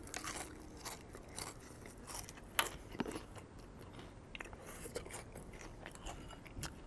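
A person chewing crisp, thin homemade shoestring fries, with irregular crunches, the loudest a little after two and a half seconds and again at three seconds.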